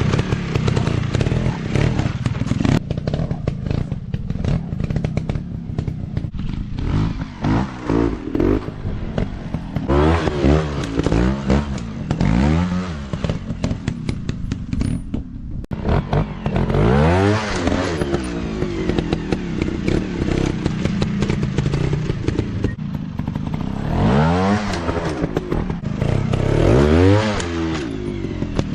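Off-road dirt bike engines running, revved again and again in throttle bursts whose pitch climbs and falls, with steadier running between the bursts.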